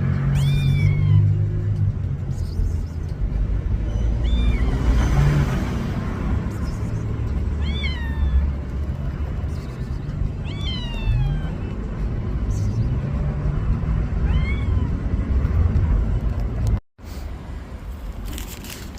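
A cat meowing, about five short calls a few seconds apart, each rising then falling in pitch, over a low rumble. The sound cuts out for a moment near the end.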